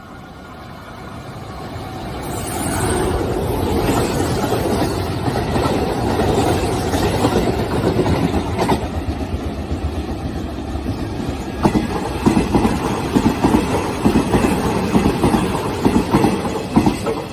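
Two electric commuter trains passing through a station in opposite directions, a Sanyo 5000 series and a Hanshin 9300 series. The rumble of wheels and motors builds over the first few seconds. From about two-thirds in, the wheels clack rapidly over rail joints and points.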